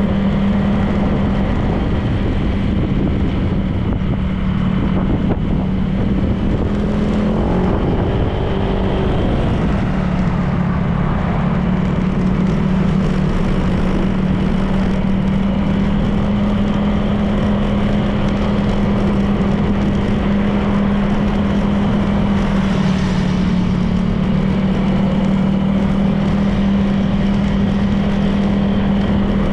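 Honda PCX 160 scooter's single-cylinder engine running steadily while riding, its note stepping up and down briefly a few times, over steady road and wind noise.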